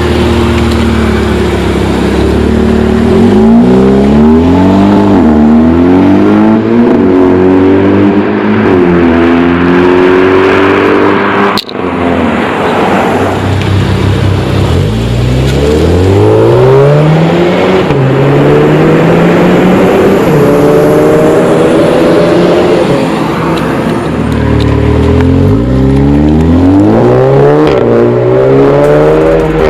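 Volkswagen Golf R's turbocharged four-cylinder engine through an AWE SwitchPath cat-back exhaust, accelerating hard through the gears: the revs climb, then drop at each upshift, several times over. There is a brief sharp break a little before halfway.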